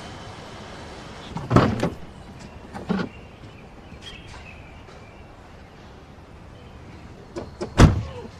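Car doors being shut: a thud about one and a half seconds in, a lighter one about three seconds in, and the loudest, with a couple of small knocks just before it, near the end.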